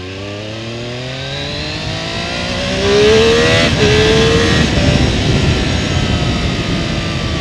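Triumph Daytona 765 Moto2's three-cylinder engine revving up under hard acceleration, with a gear change about three and a half seconds in, then another climb in pitch before it eases off slowly.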